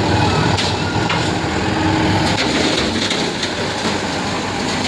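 Road traffic: vehicle engines running steadily, with a few sharp knocks along the way.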